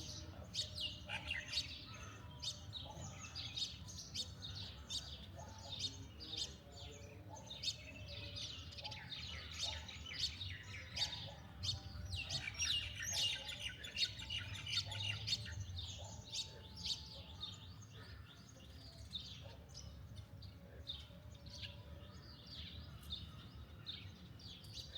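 Many birds chirping and calling at once in a dense, overlapping chorus that is busiest about halfway through, over a low steady rumble.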